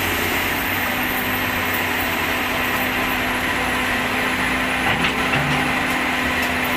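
A small motor running steadily: an even hum and hiss with a constant pitch throughout.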